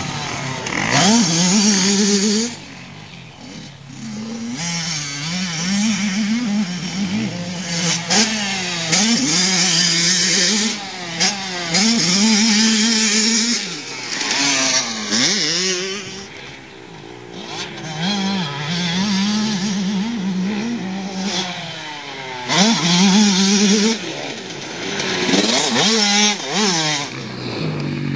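Motocross bikes on a practice track, their engines revving up and dropping back again and again through gear changes as riders pass, with quieter gaps between passes.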